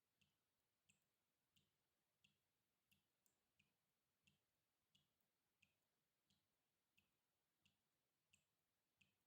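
Water drops falling one by one in a steady, even rhythm, about three drips every two seconds, each a short plink with a soft low thud. Faint.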